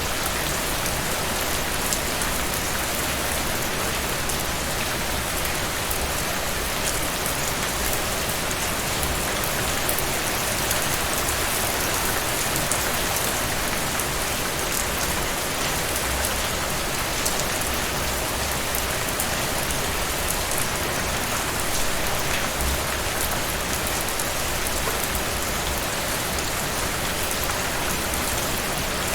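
Heavy rain falling steadily on a surface, a dense even patter of drops.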